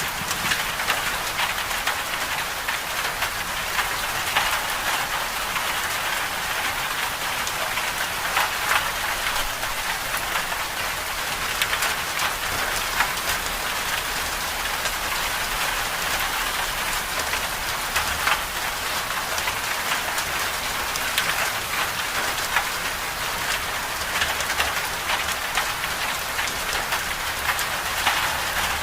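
Steady medium rain falling, a dense even hiss with countless individual drop taps running through it.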